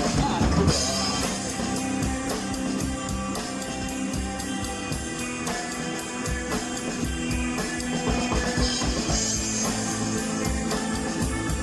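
Rock band playing an instrumental passage between sung lines: drum kit keeping a steady beat, with guitar.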